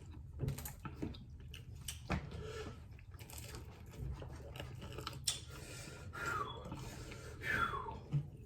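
Close-up chewing and biting of spicy chicken wings, with irregular wet clicks and mouth smacks.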